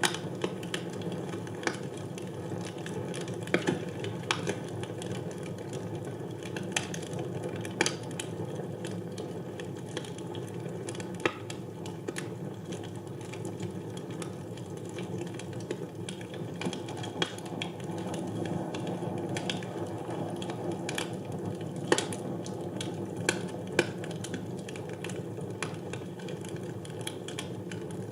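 Wood fire burning in a fireplace: a steady low rustle of flames with irregular crackles and pops from the burning logs, one sharp pop standing out about two-thirds of the way through.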